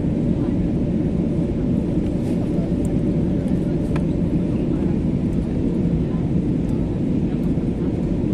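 Steady cabin noise inside an Airbus A320neo airliner in flight: a low, even rumble of the engines and airflow.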